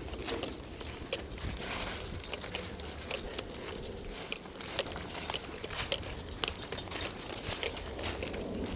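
Footsteps of a person walking with a dog: irregular short clicks, a few each second, with light metallic jingling.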